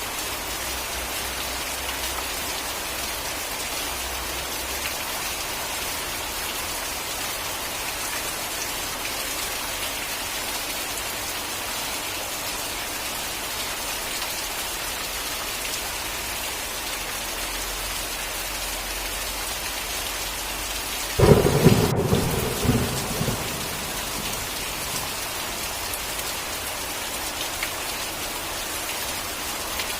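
Steady rain falling, with one sudden clap of thunder about two-thirds of the way through that rumbles away over a couple of seconds.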